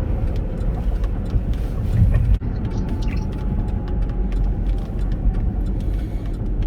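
Inside a moving Chevrolet Captiva: steady low road and engine rumble while driving, with a louder bump about two seconds in.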